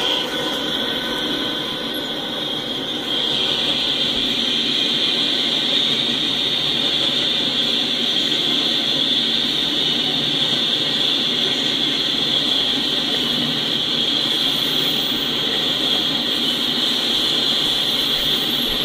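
Double-stack intermodal freight train cars rolling steadily past on the rails, with a steady high-pitched whine over the rumble. The whine dips for about the first three seconds and then holds.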